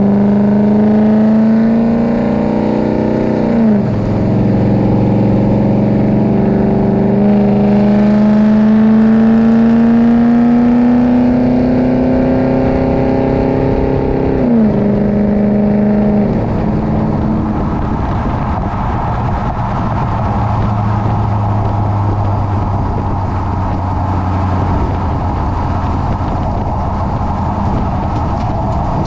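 2018 Chevrolet Silverado pickup with an equal-length exhaust accelerating through the gears: the engine note climbs steadily and drops sharply at two upshifts, about three and a half and fourteen and a half seconds in. It then settles into a steady cruise.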